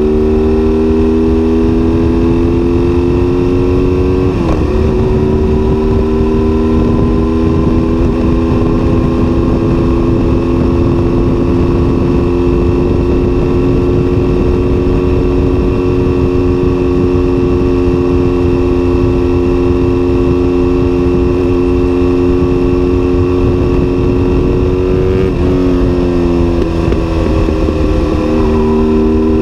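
BMW R1200S boxer twin with an SC-Project exhaust pulling at a steady cruise. About four seconds in the revs climb and then drop sharply with an upshift. Near the end the revs fall away in steps, under a constant rush of wind noise.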